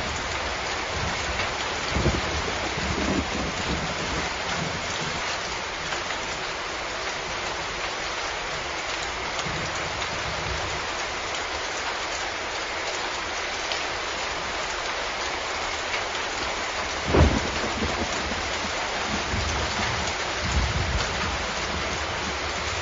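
Steady, heavy rainfall hissing down onto surfaces. A few low thuds break through it, the loudest about three-quarters of the way through.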